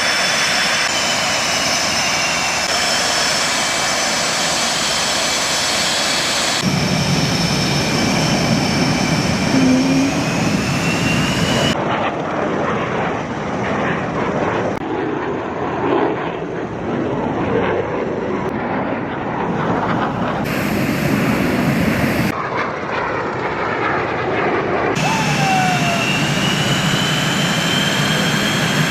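F/A-18 Hornet fighter jet engines running, with a loud jet roar and a high turbine whine that slides up and down in pitch. The sound changes abruptly several times, as one recording is cut to the next.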